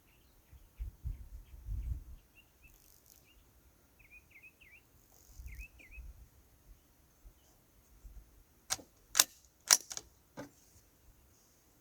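Birds chirping faintly, then about eight and a half seconds in a quick run of five sharp metallic clicks over under two seconds: a rifle's bolt being worked to eject the spent case and chamber the next round.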